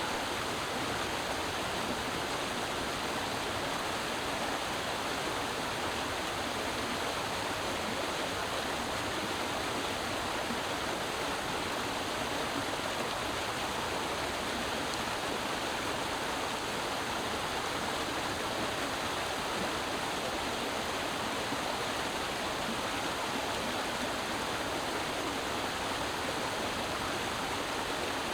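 Creek water rushing and babbling over rocks, a steady full-bodied flow.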